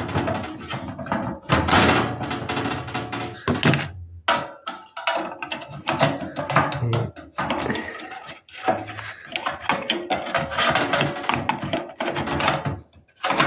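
Handling noises from heater parts being worked by hand: a cloth rubbing and metal parts knocking and scraping as they are fitted together, in irregular bursts.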